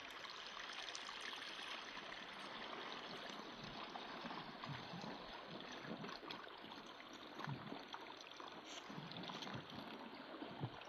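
Water running steadily, a continuous trickling flow.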